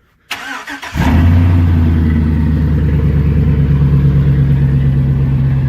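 A 2003 Chevrolet Avalanche Z71's V8 engine, started by remote starter, cranks briefly and catches about a second in, then idles steadily.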